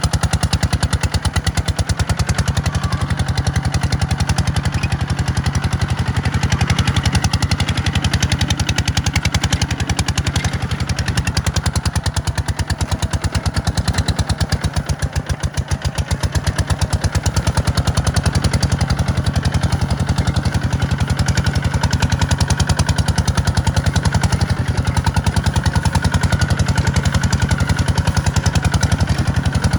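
Tractor engine running steadily with a fast, even pulse, dipping slightly in level about halfway through.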